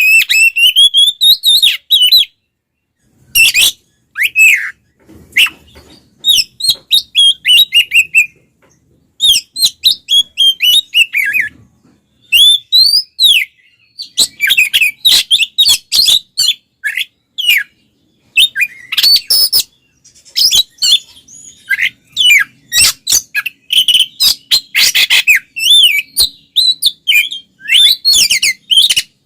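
Oriental magpie-robin (kacer) singing loudly: rapid, varied runs of sweeping whistles and chirps, broken by short pauses. It is a combative full song of the kind used to provoke other magpie-robins.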